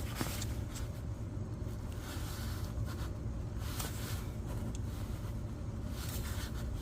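Faint scattered rustles and light scrapes of a gloved hand gripping and twisting the spin-on oil filter to loosen it, over a steady low hum.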